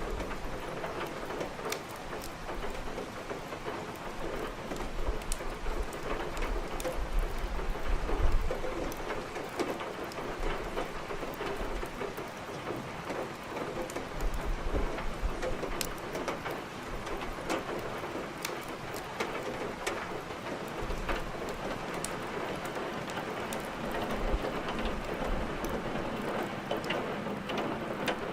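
Steady heavy rain mixed with the crackle of a wood fire burning in a fireplace: a constant hiss scattered with sharp snaps and pops, and low rumbles coming and going several times.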